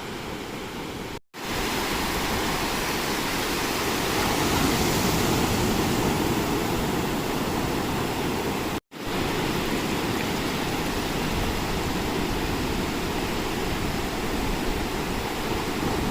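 Steady rushing noise of ocean surf breaking on the beach, cut off twice for an instant, about a second in and again about nine seconds in.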